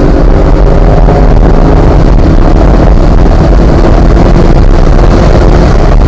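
Chevrolet Corvette C8 Z51's 6.2-litre LT2 V8 running at speed on a race track, heard under heavy wind and road noise. It is very loud throughout, and its pitch shifts only a little.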